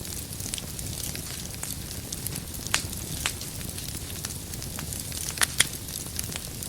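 Wood logs burning in a fireplace: a steady low rumble of flames with scattered sharp crackles and pops. One loud pop comes near the middle and two more close together about two-thirds of the way through.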